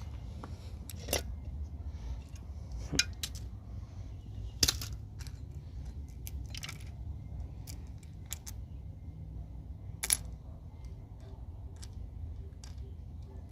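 Failing HVAC compressor running with a low steady hum, broken by irregular sharp metallic clinks a second to several seconds apart, the sound of a bad compressor.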